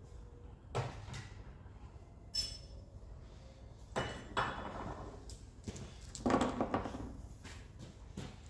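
Hand tools and loose steel engine brackets clanking and clinking as they are handled and set down. There are a few separate knocks, one with a brief metallic ring about two and a half seconds in, and a longer clattering rattle a little past six seconds in.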